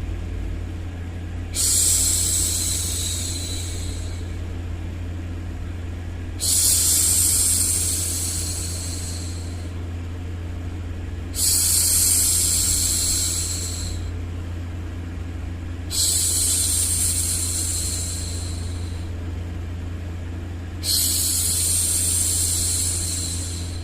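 A woman's hushing 'shhh' sound, repeated five times about every five seconds, each starting suddenly and fading away over two to three seconds, over a steady low background hum of white noise.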